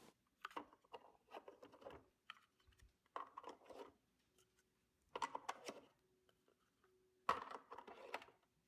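Faint, scattered clicks and light knocks of hard plastic toy parts being handled, in about six short clusters.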